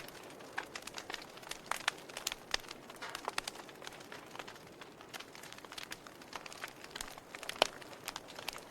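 Wood fire in a fireplace crackling: irregular small pops and snaps over a soft steady hiss, with one sharper pop near the end.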